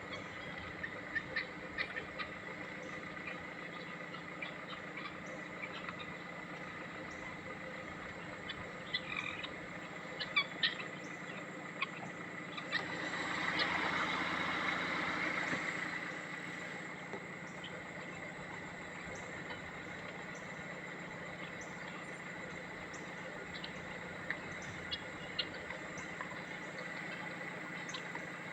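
Guinea fowl giving scattered short, harsh calls at irregular intervals over a steady background. Midway through, a broad rushing swell of sound rises for about four seconds and then fades, and it is the loudest thing heard.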